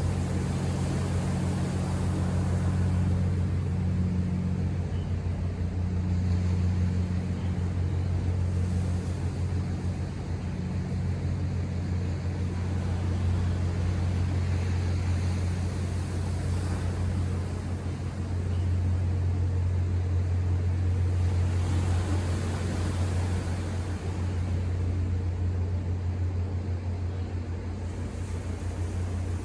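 Ocean surf washing in, the rush swelling and fading every several seconds, over a steady low motor hum.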